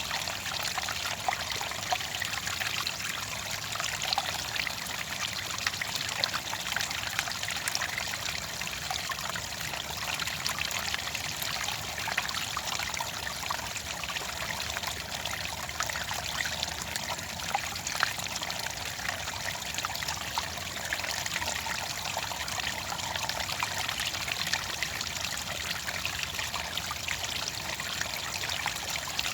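Clear water trickling and splashing steadily, with many small droplet ticks through the flow.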